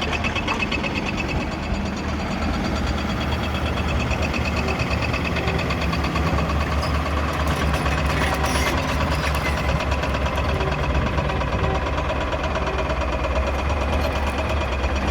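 Diesel engine of a Hyundai HX220S excavator running steadily, a deep even drone.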